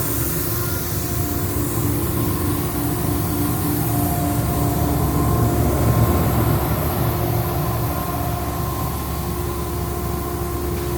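Ingersoll Rand 50 hp air-cooled rotary screw air compressor running steadily while it builds tank pressure: a constant low hum with a steady whine above it.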